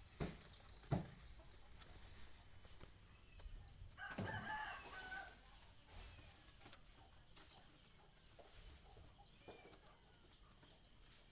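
A rooster crowing once, about four seconds in, lasting just over a second. Two sharp knocks come in the first second.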